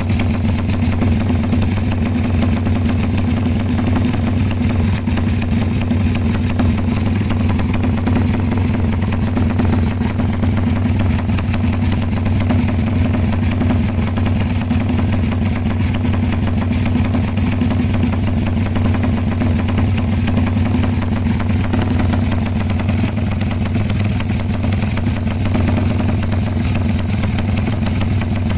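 Motorcycle engine idling steadily through a BMS X-one aftermarket exhaust fitted with a quarter-size baffle insert, giving a deep, even exhaust note.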